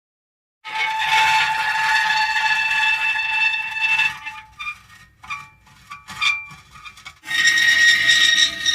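Metal creaking. After a short gap comes a long, drawn-out squealing creak holding several steady pitches, then a run of short, broken squeaks, and near the end another long creak.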